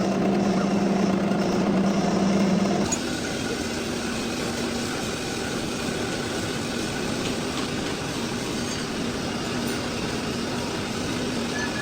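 Lathe running steadily with a low hum; about three seconds in the sound drops a step quieter and carries on evenly.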